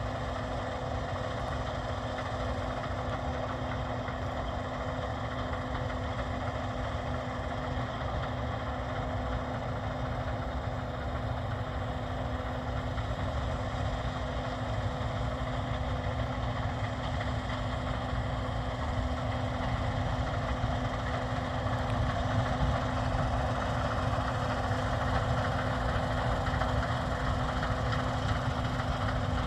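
Case IH 7150 combine harvester running steadily, a constant engine and machinery rumble with a steady hum, growing slightly louder over the second half.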